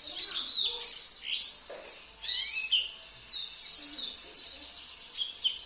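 Small songbird singing a fast, high-pitched warbling song of quick chirps and sweeping whistles, in runs about a second long with short gaps between.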